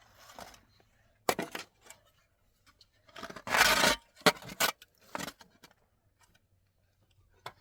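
A few short knocks and one longer rough scraping noise about three and a half seconds in, the sound of things being handled.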